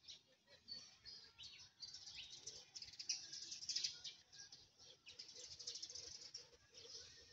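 Faint chirping and twittering of small birds, a dense run of rapid high notes that is loudest through the middle, with a low note repeating several times a second in the second half.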